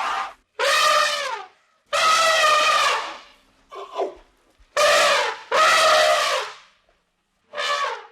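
An animal calling over and over, about five calls roughly a second long with short pauses between them, each call wavering and dropping in pitch at its end.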